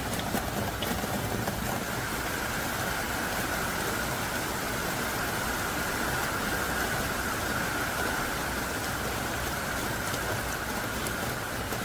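Heavy downpour: dense, thick rain falling hard and steadily, an even hiss with a few faint drop ticks.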